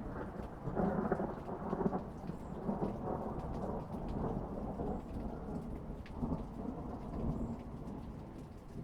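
Rolling thunder rumbling over steady rain. It swells loudest about one to two seconds in, then eases off toward the end.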